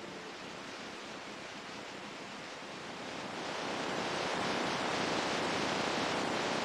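Ocean waves washing in, a steady rushing surf that swells louder from about three seconds in.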